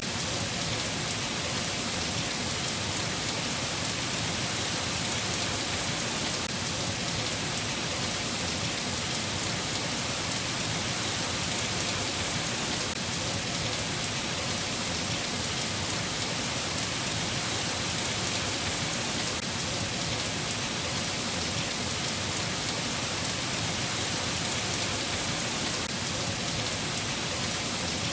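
Steady rain falling: an even, unbroken hiss of dense drops that does not change.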